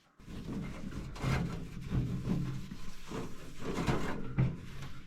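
The outside casing of a toaster oven being scrubbed and wiped by hand, in repeated rubbing strokes.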